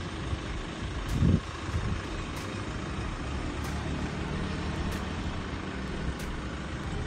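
Motor vehicle engine idling with a steady low hum, and one low thump about a second in.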